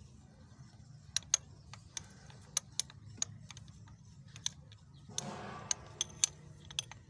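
Hand tools working a spark plug out of a car engine: irregular sharp metallic clicks and clinks, with a brief scraping rustle about five seconds in, over a low steady hum.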